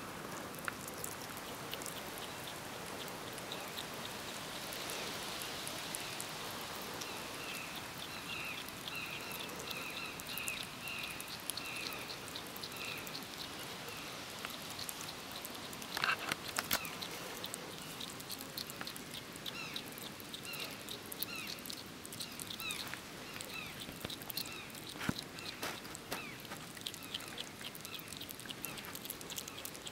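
Hedgehog chewing a dead bird: a steady stream of wet smacking and crunching clicks, with a few louder bites now and then.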